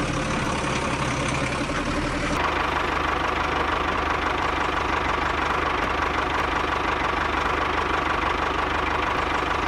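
A small engine running steadily with a fast, even knock. The sound changes abruptly about two seconds in, where a steady whine joins it.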